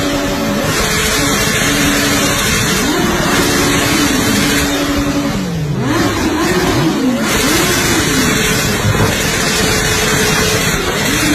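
Supercharged inline-four engine of a Kawasaki Ninja H2 motorcycle being revved, with a few quick rises and falls in pitch a little past the middle over a steady, loud engine noise.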